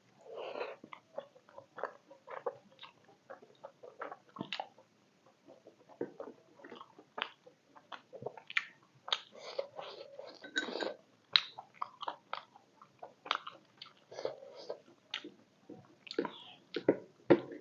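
A person chewing and biting beef momos close to the microphone, with irregular wet mouth noises and small clicks throughout.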